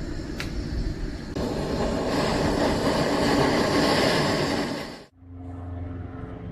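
Steady rushing roar of a portable cassette-gas burner's flame, stepping up in loudness about a second and a half in. It cuts off abruptly about five seconds in, where soft music with steady low tones takes over.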